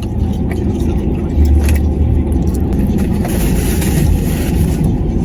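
Steady low rumble of a car cabin, engine and road noise, with a few light clicks.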